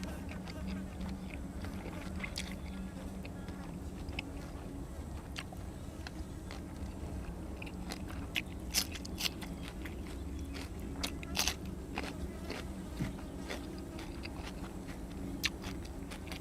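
A person eating grilled cuttlefish and raw vegetables: chewing with scattered crunches, the sharpest about nine and eleven seconds in, over a steady low hum.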